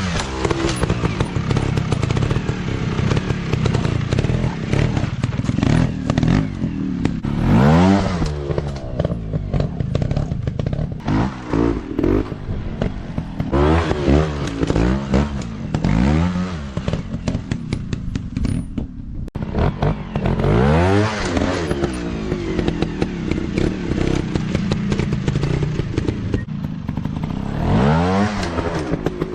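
Off-road motorcycle engines revving up and dropping back in repeated throttle bursts every few seconds, with scattered knocks and clatter.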